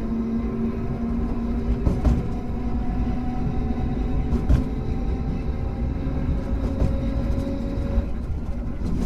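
Hankai Tramway car 351 running, heard from on board: a steady low rumble of wheels and running gear with a hum that rises slightly in pitch. A few sharp clicks sound, about two seconds apart.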